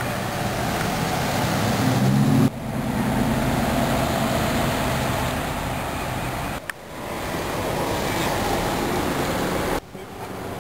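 Roadside vehicle noise: a steady engine hum and traffic, broken by abrupt changes about two and a half, seven and ten seconds in where separate clips are cut together.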